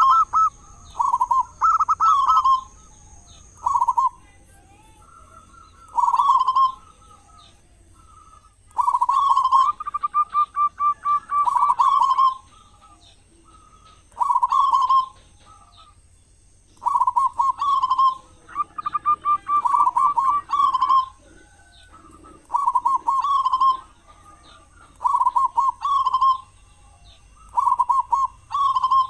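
Zebra dove (perkutut) cooing over and over in short rolling phrases, with two longer stretches of fast, stuttering notes about ten seconds in and again near twenty seconds.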